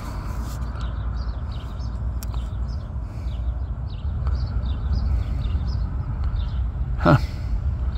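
Small birds chirping repeatedly over a steady low rumble, with one brief falling sound near the end.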